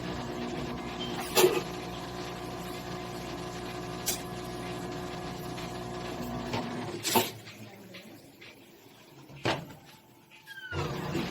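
Electrolux ELAV-8450 washing machine running with a steady motor hum and a few sharp clicks. The hum stops about seven seconds in, goes quiet for about three seconds, then starts again near the end.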